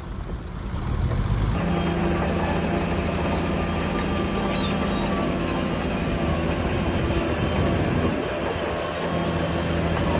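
Crawler bulldozer's diesel engine running under load, rising about a second and a half in and holding steady, with a short dip around eight seconds before it picks up again.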